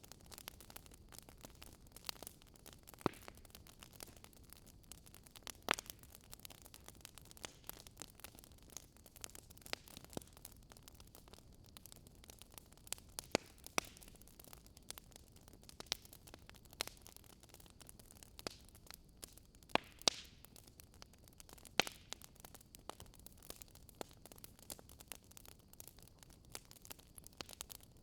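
Wood fire in a fireplace crackling faintly: a soft, steady hiss with irregular sharp pops and snaps, a few of them louder than the rest.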